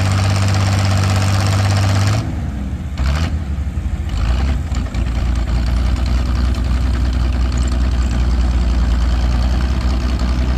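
Antique pulling tractor's gasoline engine running hard at high, steady revs. About two seconds in, the revs fall away and it settles at a lower, steady speed.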